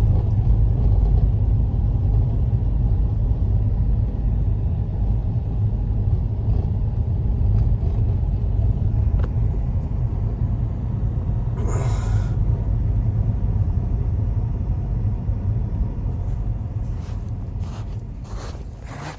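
Strong blizzard wind making a loud, deep, steady rumble that cuts in suddenly and eases off near the end, with a short hiss about twelve seconds in.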